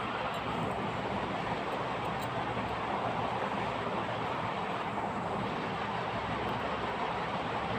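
A steady, even rushing noise with no clear source, with a few faint high ticks in the first couple of seconds.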